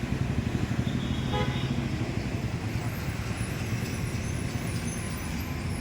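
Engine running with a steady low throb, and a brief horn toot about a second and a half in.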